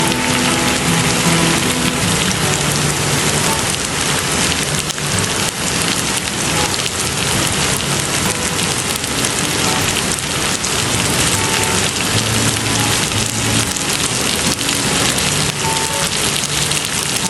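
Heavy rain falling steadily, a dense hiss of countless drops hitting surfaces.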